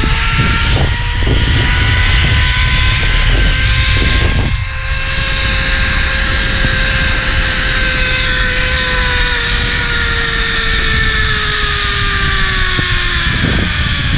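Zipline trolley pulleys running along the steel cable: a steady whine that rises a little in pitch over the first few seconds, then slowly falls as the rider slows. Heavy wind rumble on the microphone underneath, with a few short knocks early on.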